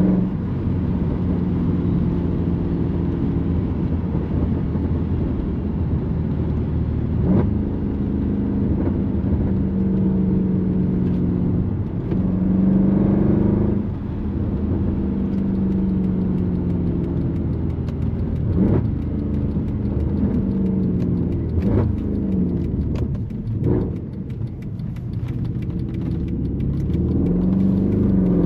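Straight-piped M156 6.2-litre naturally aspirated V8 of a Mercedes C63 AMG being driven. The engine note holds steady, then falls and rises again several times through the gears, with a few brief sharp cracks along the way. Near the end it climbs as the car accelerates.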